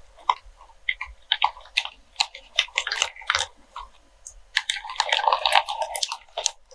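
Wax melts being handled for ASMR: a quick series of crisp crunching clicks, with a denser run of crackling near the end.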